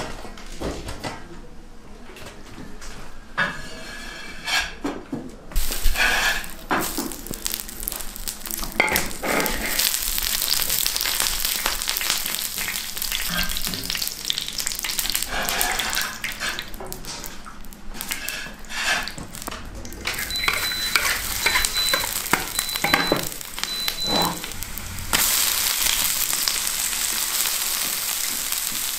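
Oil and food sizzling and hissing in a large iron wok, with a metal wok spatula scraping and knocking as it stirs. The first few seconds hold only scattered clicks and knocks. Near the end the sizzle jumps louder and steadier as cuttlefish and minced garlic go into the hot oil.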